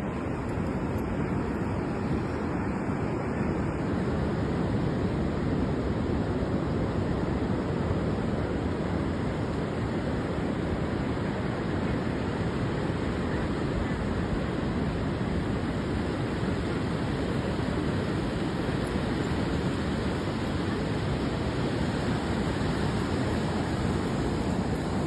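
Steady rushing noise of ocean surf and wind, with no separate events standing out.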